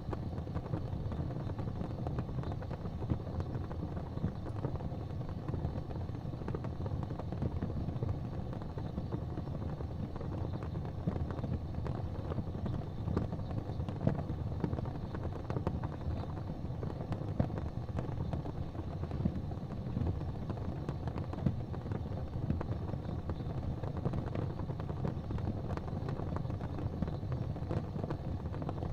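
Wood fire crackling in a fireplace: scattered small snaps and a few louder pops over a steady low rumble.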